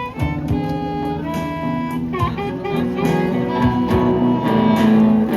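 Live music with guitar: an instrumental stretch of a song between sung lines, sustained notes played with no singing.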